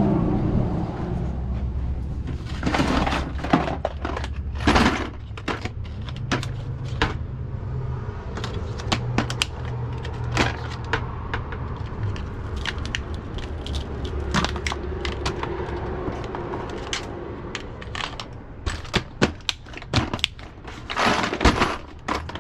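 Irregular clatter of handling and movement: many sharp clicks and knocks with short rustles, over a steady low hum.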